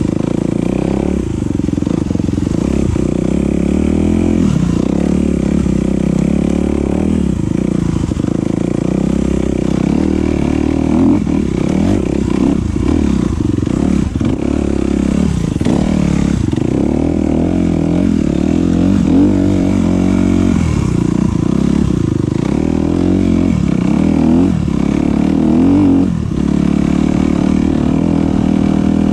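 Enduro dirt bike engine running continuously as it is ridden, its revs rising and falling without a break.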